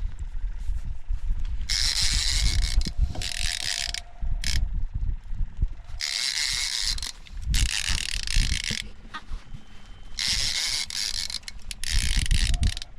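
Star-drag conventional fishing reel being cranked in repeated bursts of about a second each, as a hooked fish is pumped up and reeled in, over a low rumble.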